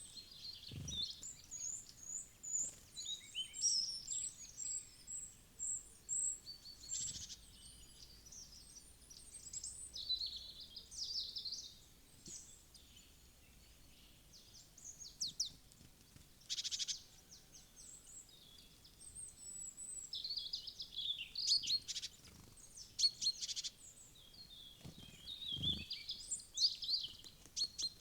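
Small woodland songbirds calling: many short, high chirps and trills overlapping, some in quick runs of repeated notes. Two dull thumps sound, one near the start and one near the end.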